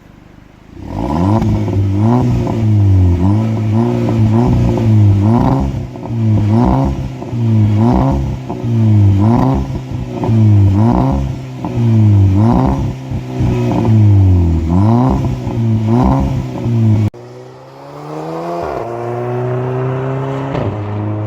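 Volkswagen Golf Mk5 GTI's CDL 2.0 TFSI turbocharged four-cylinder engine revved repeatedly in quick blips, about ten rises and drops in engine speed. After a sudden break, slower revs rise and fall back near the end.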